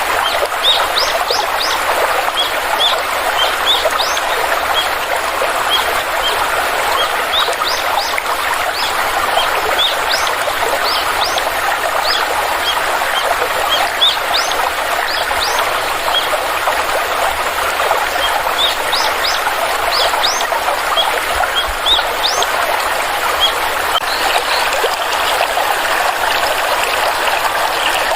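Stream of water flowing steadily, with small birds chirping over it: many short, rising, high-pitched chirps in quick clusters, fewer near the end.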